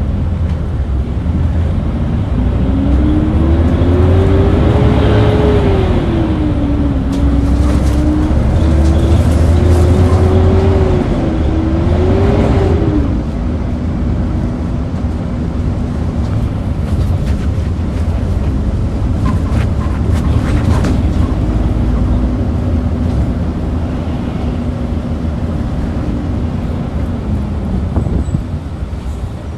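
Hyundai New Super Aero City city bus (2013) engine and drivetrain running under way. A loud whine climbs and dips in pitch several times through the first half as the bus gathers speed. It then holds at a steady lower pitch and falls away near the end.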